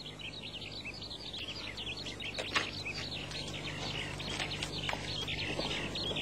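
A chorus of many small birds chirping continuously in quick, overlapping high chirps, over a faint steady low hum.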